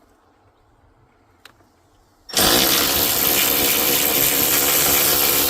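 Battery power tool spinning out a trim bolt, starting suddenly about two seconds in and running steadily with a gear whine.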